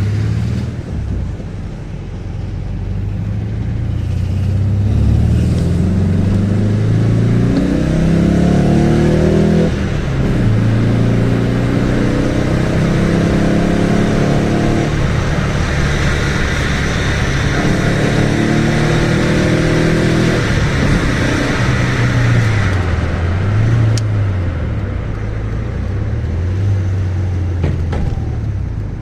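Alfa Romeo 145's 1.6 boxer engine through a Ragazzon Sport aftermarket exhaust, accelerating through the gears. The note climbs, drops at upshifts about ten and fifteen seconds in, then wavers up and down at lower revs near the end.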